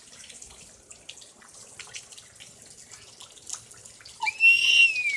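Rain pattering, a steady scatter of fine drips. About four seconds in, a child lets out a loud, very high-pitched squeal that rises and then falls.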